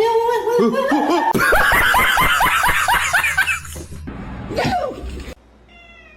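A person laughing hard in a rapid run of high-pitched pulses lasting about two seconds, then stopping abruptly about five seconds in.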